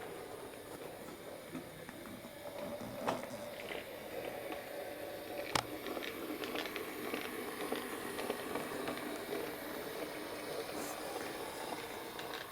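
Bachmann Class 03 model shunter running along the track: the small motor's steady whirr, with occasional sharp clicks as the wheels pass rail joints and points.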